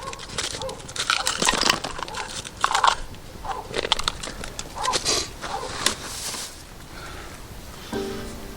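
Irregular crunching and crackling, a run of uneven bursts that die down about 7 seconds in. Music with steady tones starts just before the end.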